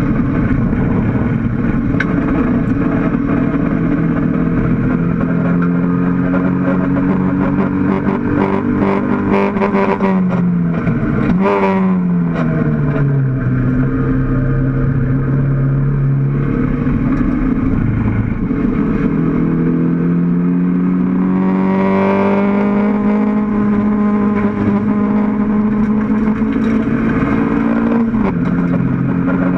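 Mk1 Toyota MR2 race car's engine at racing revs, heard from inside the stripped cabin. The revs fall sharply about ten seconds in as the car slows for a corner, then climb steadily through a long pull, with a quick drop in pitch near the end as it shifts up.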